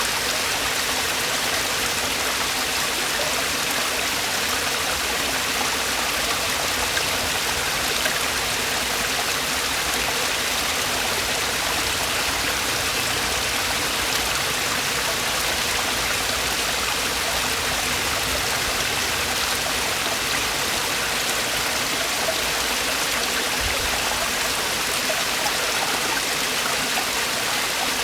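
Mountain stream water falling and rushing over rocks in a steady, even splashing rush.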